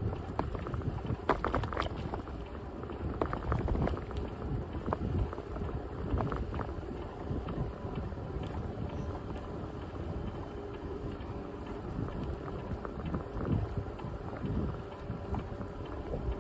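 Wind buffeting the microphone over the low rumble of a bicycle rolling along a path, with a few short rattles and knocks from the bike, mostly in the first few seconds.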